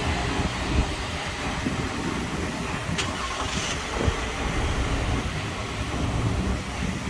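Car running, a steady engine and road rumble under a hiss, with a sharp click about three seconds in and a knock a second later.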